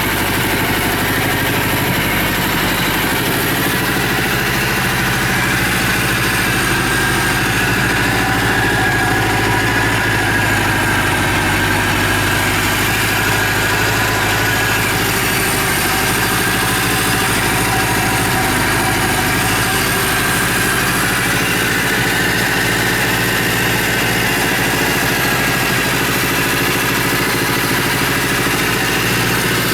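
Suzuki GS750's air-cooled inline-four engine idling steadily.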